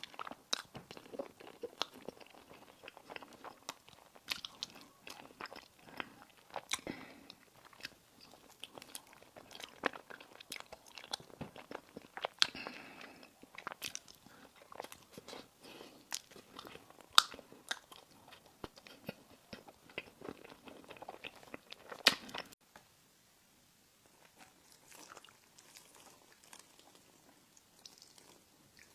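Close-miked eating of crisp desserts: sharp crunching bites and crackles with moist chewing between them. About three-quarters of the way through it drops suddenly to quieter, sparser chewing.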